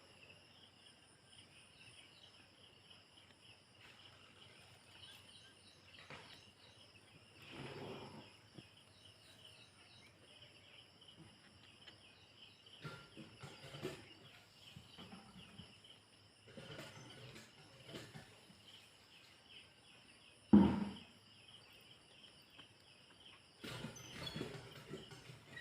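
Outdoor ambience: a steady chorus of high-pitched chirping, broken by a few short low rumbles and one sharp thump about twenty seconds in.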